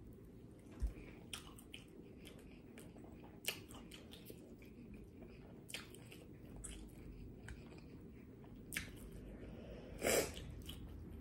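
Chewing of buffalo-sauced boneless chicken wings: soft wet mouth sounds with scattered sharp clicks and smacks, the loudest about ten seconds in.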